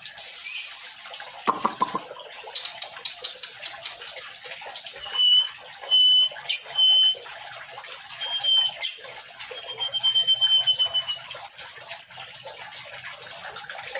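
White-rumped shama (murai batu) giving several short, clear whistled notes and then one longer level whistle, over a steady, water-like hiss with small clicks.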